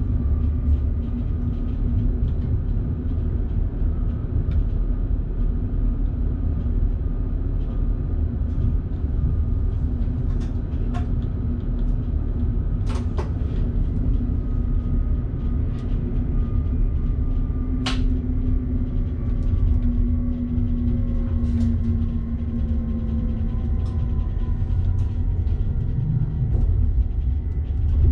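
Electric train running along the track, heard from the driver's cab: a steady low rumble with a motor hum that drifts slightly lower in the second half, and a few sharp clicks.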